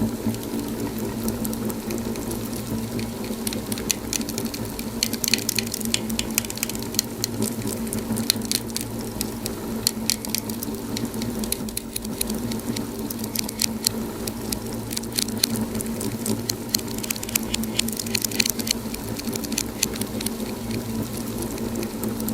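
Wood fire crackling in a fireplace: dense irregular pops and snaps over a steady low hum.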